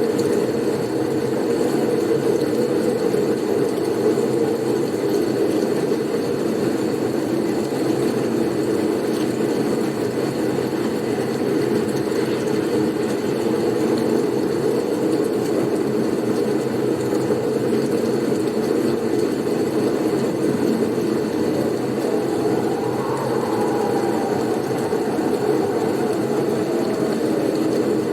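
Blizzard wind noise: a steady, low rushing with no gusts or breaks, and a faint rising-and-falling whistle near the end.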